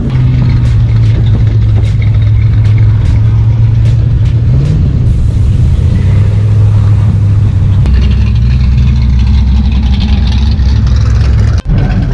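Classic cars and a pickup driving slowly past, their engines and exhausts rumbling low and steady; the rumble drops deeper about eight seconds in as another car comes by.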